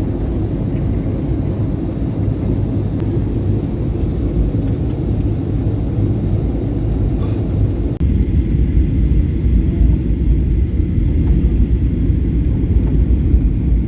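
Steady low vehicle rumble, with a brief break about eight seconds in.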